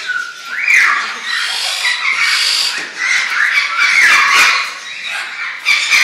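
A crowd of caged birds squawking and screeching together, with many overlapping rising and falling calls.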